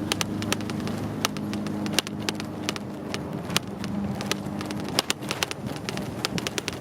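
Bicycle ride noise: irregular sharp rattling clicks over a low steady hum.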